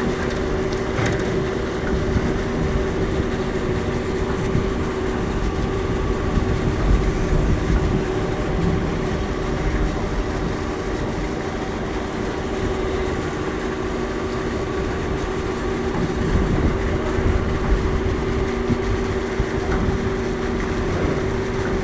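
Electric passenger ferry under way: a steady hum with a few held tones over a constant low rumble.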